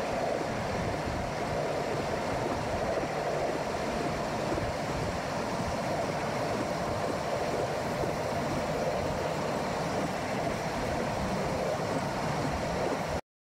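Passenger train running steadily along the track, heard from the coach: a continuous rushing noise of wheels on rail. It cuts off abruptly near the end.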